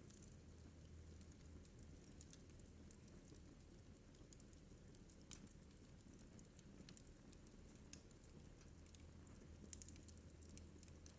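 Faint crackling of a wood fire burning in a fireplace: irregular small pops and snaps over a low, steady rumble.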